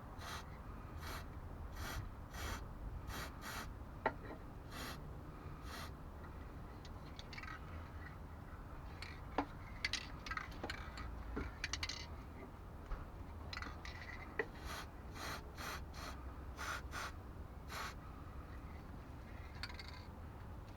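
Short hissing puffs from an aerosol can of PTFE dry lube being sprayed onto the Jeep's front suspension joints, a quick string of them in the first few seconds and another string a little past the middle, faint over a low background rumble.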